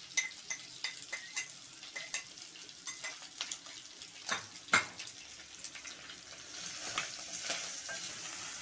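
Tripe and freshly added sliced onions frying in oil in an aluminium pot, with a wooden cooking stick knocking and scraping against the pot as it stirs; two louder knocks a little past the middle. The sizzle grows steadier in the last couple of seconds.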